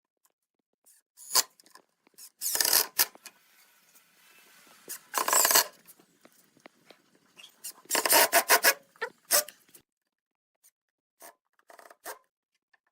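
Short scraping strokes of a hand tool on wood, about six separate rubs or rasps with pauses between them.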